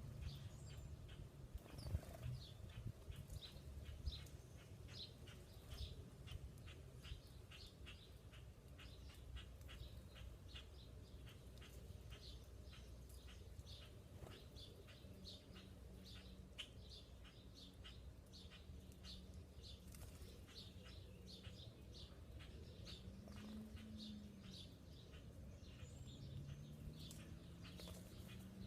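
Small birds chirping faintly, short high chirps coming several times a second. Near the end a faint low hum rises and falls.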